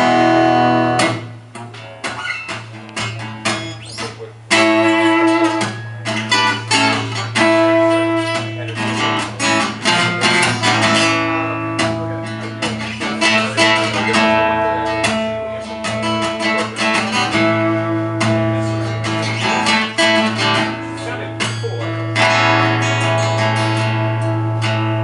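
Amplified guitar plucked and strummed through a PA, with a steady low hum underneath the notes: the hum stays even with the bass turned down to minimum.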